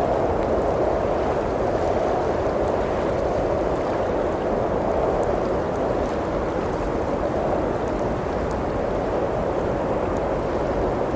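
Steady blizzard wind blowing, with a wood fire in a fireplace crackling faintly in small scattered pops.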